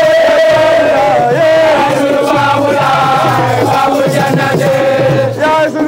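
A group of voices chanting a devotional Islamic song together in Wolof, with long held sung notes and gliding pitches, the singing dipping briefly near the end.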